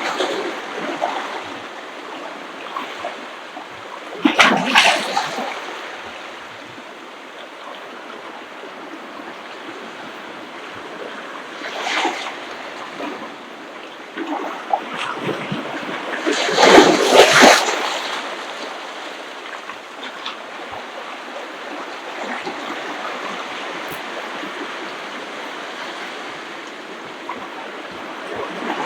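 Ocean waves breaking on a beach over a steady wash of surf. Four waves crash louder than the rest: near the start, about four seconds in, about twelve seconds in, and the biggest a little past halfway.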